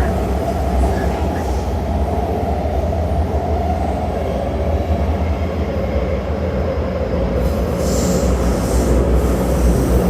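Taipei Metro Zhonghe-Xinlu line train running between stations, heard from on board: a steady rumble of wheels on rail and running gear, with a brief high-pitched hiss near the end.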